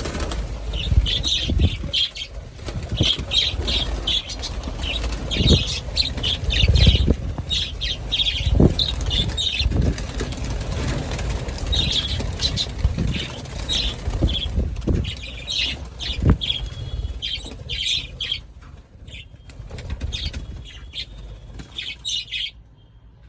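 Caged budgerigars chirping in rapid, repeated bursts of chatter, with wings fluttering and irregular low thumps; the chirping stops near the end.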